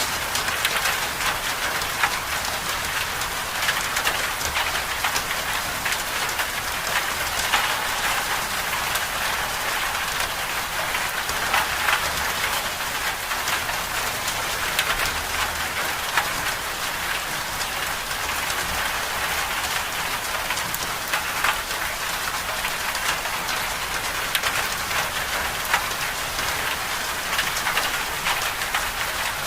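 Winter-storm ambience: a steady, dense hiss of precipitation striking a surface, with many small sharp ticks scattered through it.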